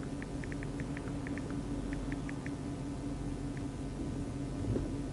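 Steady low hum of an idling police vehicle heard from inside. In the first two or three seconds about a dozen short, faint, high pips come at irregular spacing.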